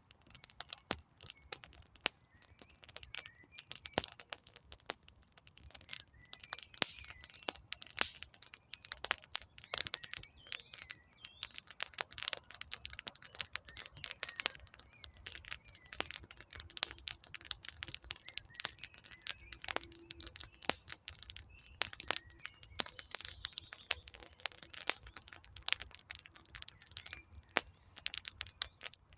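Wood campfire burning, with a dense run of irregular sharp crackles and pops from the burning logs, and a faint bird calling now and then.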